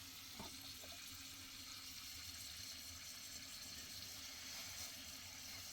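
Food frying, a faint steady sizzle, with one small knock about half a second in.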